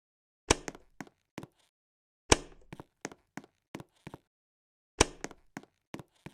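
A series of sharp knocks and clicks: three loud knocks, each with a short ringing tail, about half a second, two and a quarter, and five seconds in, among lighter, irregular clicks.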